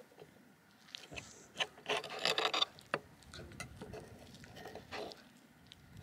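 Table knife and fork cutting through a buckwheat galette on a plate: a rasping scrape as the blade saws through it, loudest about two seconds in, with a few light clicks of metal against the plate.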